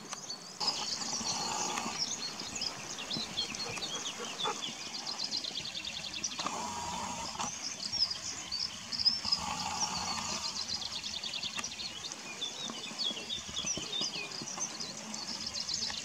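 Small songbirds chirping and trilling in a continuous chorus of short, high notes, with a few lower, hazier sounds about a second long mixed in.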